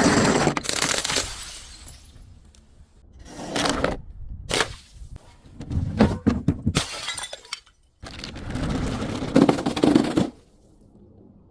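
Glass breaking and crunching in several bursts, loudest at the start, with shorter cracks a few seconds in and longer crunching stretches later on.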